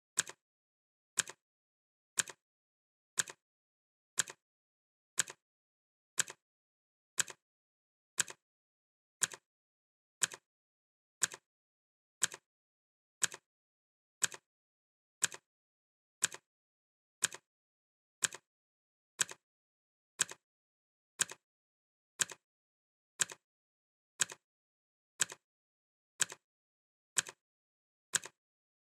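Clock ticking, one tick each second, each tick a sharp click followed closely by a fainter second click.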